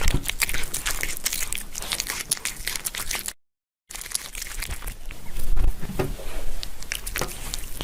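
Dense, irregular crinkling and crackling, like crumpling material being handled, in two stretches separated by a brief silence about three seconds in.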